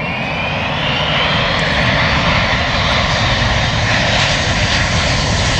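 Airplane flying low past, its engine roar growing louder over the first couple of seconds, with a whine rising in pitch.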